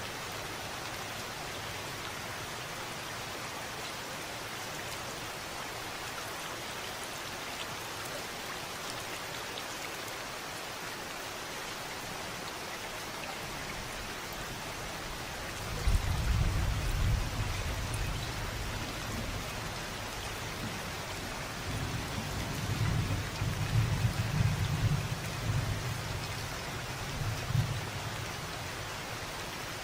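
Steady rain falling, with rolling thunder rumbling low in two long swells through the second half.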